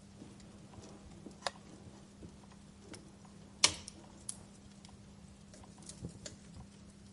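Fire crackling, with sparse, irregular sharp pops and one loud pop about halfway through, over a faint steady low hum.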